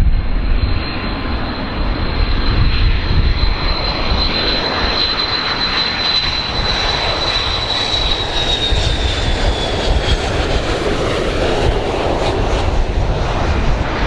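Large airplane's engines running loud, a dense rumble with a high whine that holds steady, then slowly falls in pitch and fades from about eight seconds in.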